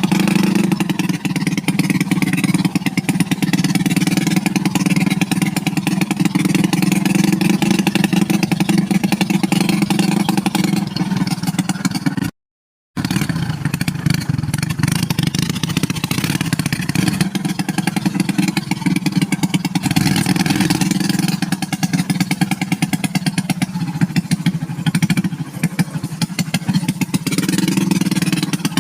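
Motorcycle engine running steadily, a rapid even run of firing pulses; the sound cuts out for about half a second near the middle.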